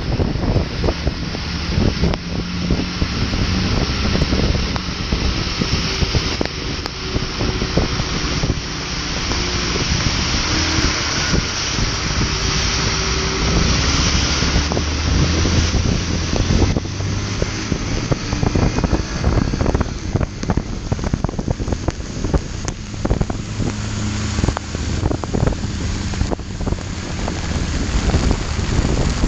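Motorcycle ridden through heavy rain: wind rushing over the microphone with rain spattering and crackling on it, and the motorcycle's engine running low underneath.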